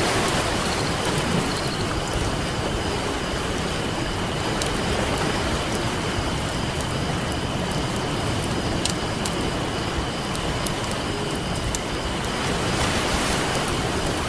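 Ocean surf washing in a steady rush that swells near the start and again near the end, with scattered small, sharp pops and crackles from a wood campfire.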